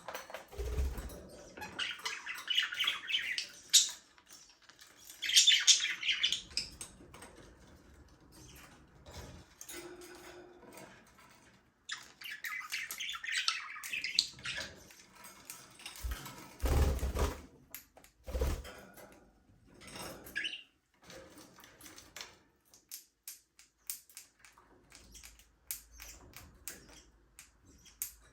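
Budgerigars chattering and warbling in several bursts, with a few low thumps in the middle. Many light scattered clicks fill the later part.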